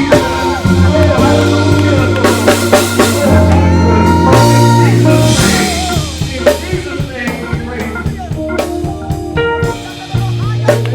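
Live gospel church band playing. A drum kit with snare and rim hits drives over a held bass line and sustained chords.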